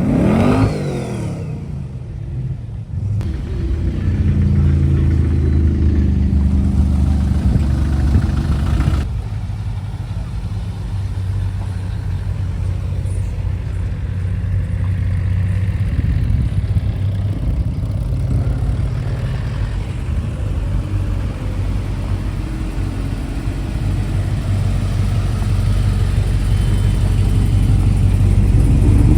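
A motor vehicle's engine revs up sharply at the start, then runs steadily with a low, even note, getting a little louder toward the end.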